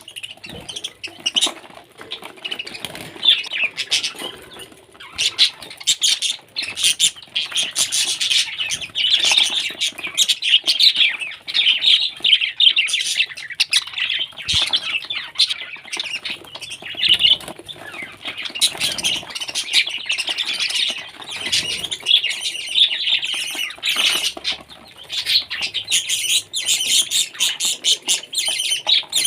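Parrot chattering and squawking without a break: a busy stream of short chirps, clicks and rustles.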